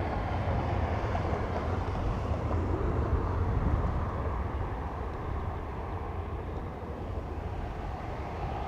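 Jet airliner engine rumble, a steady low roar that slowly eases in level.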